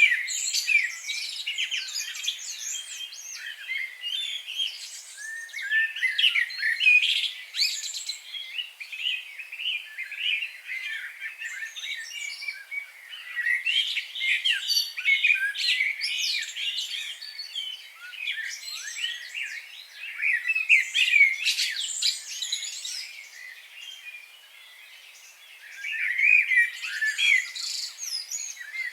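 A chorus of many small birds singing and chirping at once, quick overlapping trills and tweets, thinning briefly about four-fifths of the way through.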